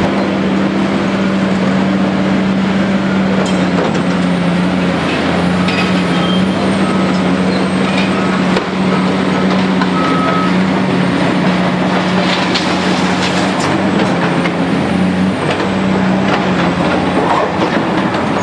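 Diesel engine of a Bobcat skid-steer loader running steadily under work. About a third of the way in, a reversing alarm beeps roughly once a second for several seconds.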